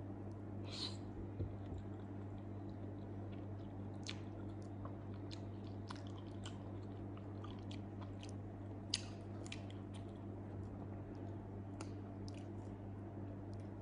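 Close-up chewing of soft grilled eggplant, with scattered small wet mouth clicks and lip smacks over a steady low hum.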